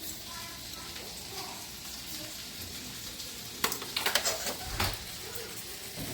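Kitchen food-preparation sounds: a steady sizzling hiss, with a quick run of clattering between about three and a half and five seconds in.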